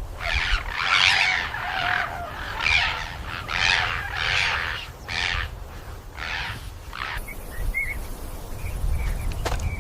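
A rapid series of about ten harsh, squawking animal calls, each under half a second, stopping about seven seconds in, over a low rumble. A few faint short chirps follow.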